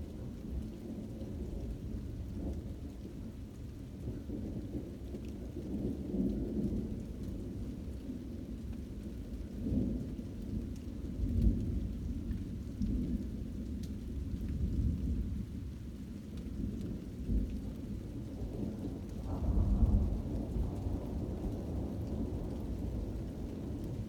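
Thunder rumbling almost constantly, swelling louder several times, most strongly around halfway through and again near the end, with rain falling.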